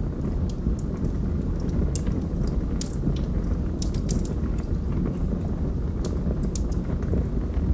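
Logs burning in a fireplace: a steady low rumble of flames with scattered sharp crackles and pops from the burning wood, several in quick clusters.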